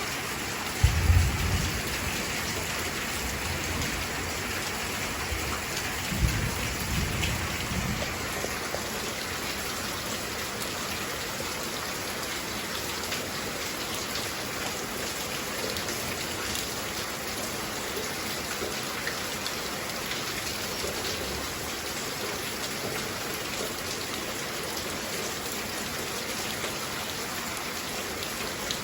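Heavy rain falling steadily, a dense even hiss of drops, with brief low rumbles about a second in and again around six to eight seconds in.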